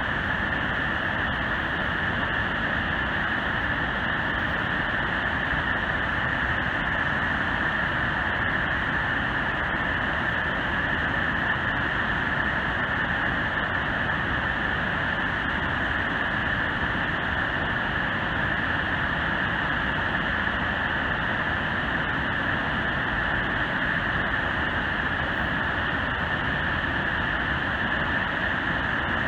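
The Great Falls of the Passaic River: the steady, unbroken rush of a large waterfall.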